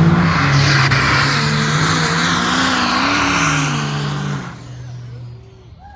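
Drag-racing diesel pickup truck engines running hard and revving, with a loud rush of exhaust and turbo noise. The sound drops off sharply about four and a half seconds in.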